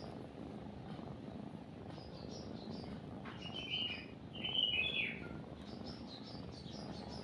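Small birds chirping in quick repeated calls, with a louder burst of chirps in the middle, over a cat's steady low purring.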